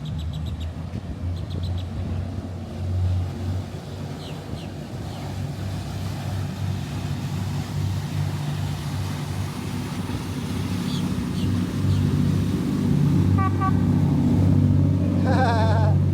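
Motorboat engine running with a steady low drone that grows louder as the boat comes closer.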